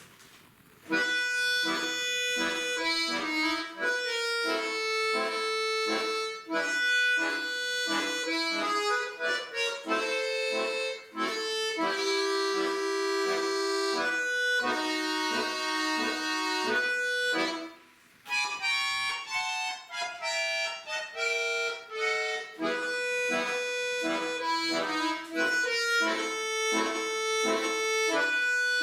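Solo accordion playing a lively tune, starting about a second in after a short silence, with a brief pause about two-thirds of the way through.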